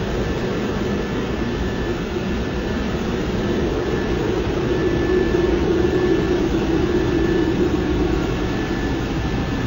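Aircraft engine running steadily: a dense, even rumble with a faint high tone that comes and goes.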